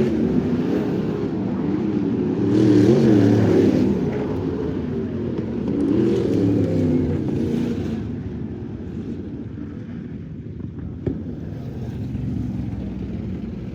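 Crate sprint car engine revving up and down in waves as the throttle opens and closes around the track, the pitch rising and falling every few seconds. It eases off after about eight seconds, and a single sharp click comes near the end.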